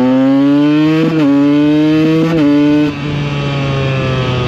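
Single-cylinder two-stroke engine of a KTM EXC 125 accelerating hard under full throttle. Its pitch climbs, drops briefly at two gear changes and climbs again. About three seconds in the throttle is closed, and the engine note falls slowly as the bike slows.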